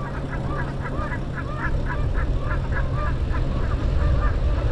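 A flock of birds calling over one another, a quick run of short honking calls, over a low rumble of wind on the microphone.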